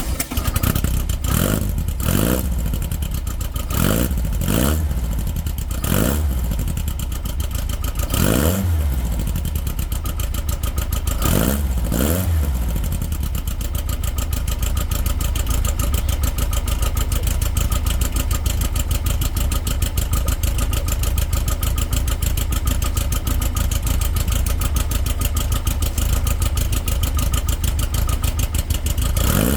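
Freshly built Volkswagen engine running just after its first start. It is revved in a series of short blips over the first dozen seconds, then runs steadily, with one more rev near the end.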